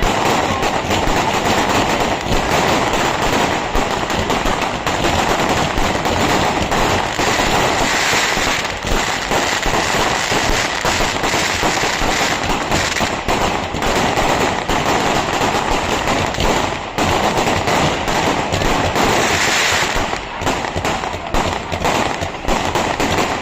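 Fireworks going off in a dense, rapid barrage of crackling bangs, thinning into more separate cracks over the last few seconds.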